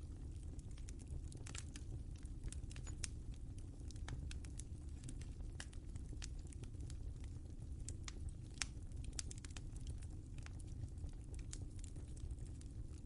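Wood fire crackling in a fireplace: a low, steady rumble of flame with irregular sharp snaps and pops, several a second at times.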